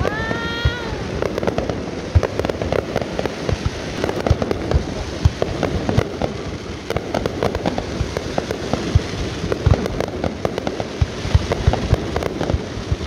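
Aerial fireworks launching and bursting in a dense, continuous run of pops and bangs.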